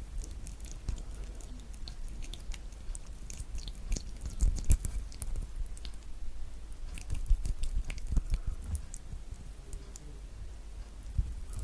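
Thick orange peel being pulled and picked off the fruit's pieces close to the microphone: irregular wet crackling, tearing and soft squishy snaps, with a few louder snaps about halfway through.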